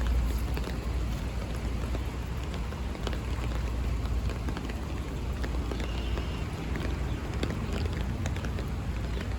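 Steady rain with many drops tapping on an umbrella, over a low rumble of wind on the microphone. A short high chirp about six seconds in.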